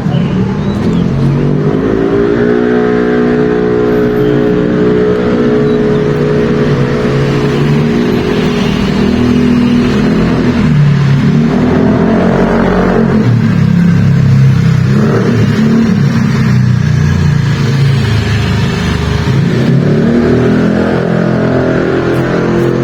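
A motor vehicle engine running loudly and changing speed, its pitch rising and falling several times as it revs.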